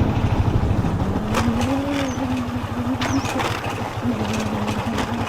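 A motor vehicle engine running with a steady, pulsing low rumble and a slightly wavering hum, with a few sharp clicks over it.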